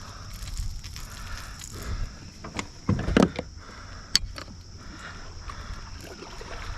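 Handling noise in a kayak: scattered knocks and clicks, loudest in a cluster about three seconds in, over a low rumble of wind and water on the microphone.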